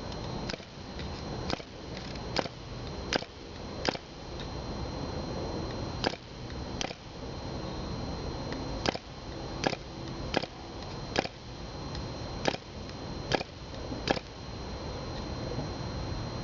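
1938 Brat model airplane engine (a 1972 reproduction) being flipped over by hand without settling into a run: a sharp click at each flip, about one a second, with short pauses between sets of flips.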